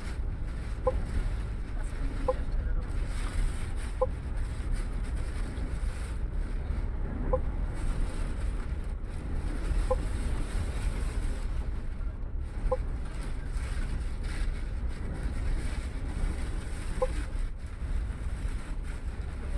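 Steady low rumble of a MAN double-decker bus's engine and running gear heard from inside the cabin, mixed with storm wind noise. Short faint beeps recur at uneven intervals every couple of seconds.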